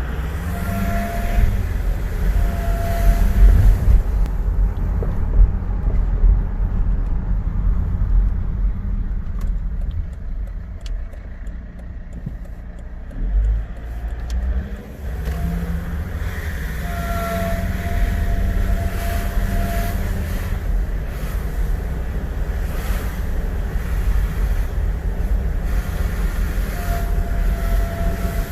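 Volvo XC90 2.4 D5 five-cylinder diesel driving, with a steady high-pitched whine over the engine and road rumble that comes in for a few seconds at a time and fades out between. The whine is a new fault that the owner hears only when accelerating.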